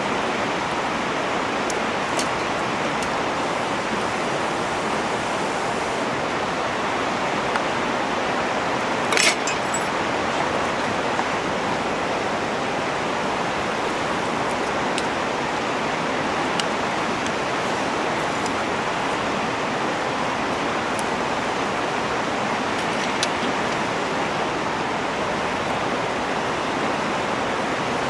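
Steady rushing of flowing stream water, with a few faint clicks and one sharper click about nine seconds in.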